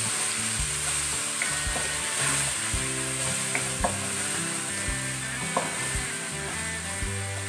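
Onions and tomatoes with turmeric, coriander powder and black pepper sizzling in oil in a metal pan. A wooden spoon stirs them steadily, with a few sharp clicks as it scrapes and taps the pan.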